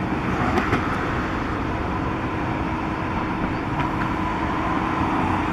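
Steady city traffic noise, an even rumble with a faint constant hum running under it.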